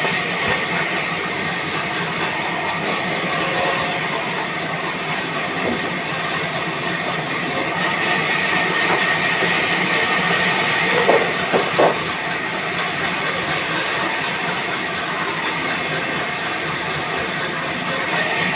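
Sawmill saw cutting wood: a steady hissing noise with a faint, steady high whine.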